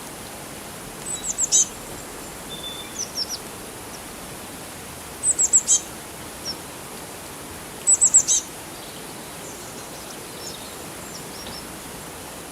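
A bird repeats a short phrase of about four quick, high, descending chirps three times, with a few softer chirps in between. Underneath is a steady hiss of running water.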